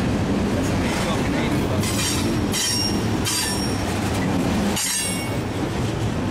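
Freight train rolling by with a steady rumble, its wheels squealing high-pitched three times: twice in the middle and once near the end.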